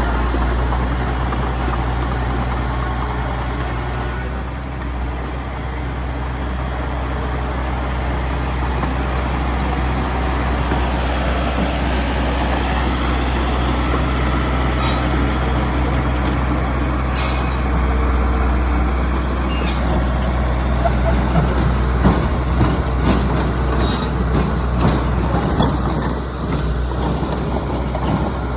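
Heavy diesel earthmoving machinery running steadily with a low drone. Short sharp hisses come around the middle, and a run of clanks and knocks fills the last several seconds.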